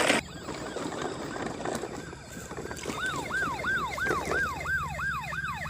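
Toy police car's electronic siren: a quick falling wail repeating about three times a second, growing louder about halfway in, over a steady low hum.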